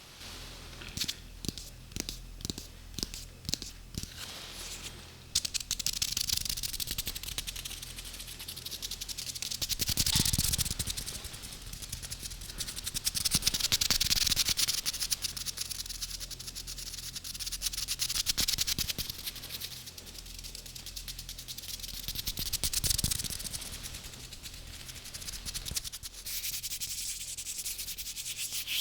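Close-up ASMR trigger sounds: a few separate light taps or crackles, then a steady scratchy rubbing on an object's surface that swells and fades in slow strokes every few seconds.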